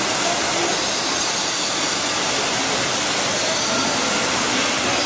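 Steady rushing noise, with a few faint bird calls over it.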